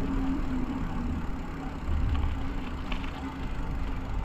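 Wind rushing over a bike-mounted GoPro's microphone with a steady hum from the bicycle's tyres rolling on the road, heard during a downhill ride.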